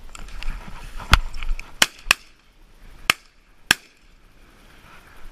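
Five shotgun shots in quick succession over about two and a half seconds, the first the loudest, fired at ducks flying overhead.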